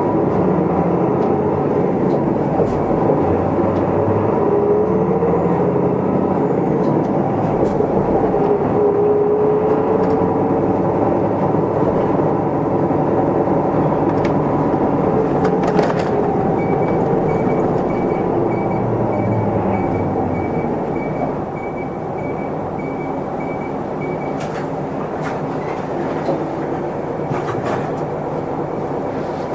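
Isuzu Erga Mio city bus heard from inside: its diesel engine and drivetrain running under way, with a pitched whine that glides up and down early on. For several seconds in the middle an electronic beep repeats about twice a second, and the running sound eases a little in the last third as the bus slows.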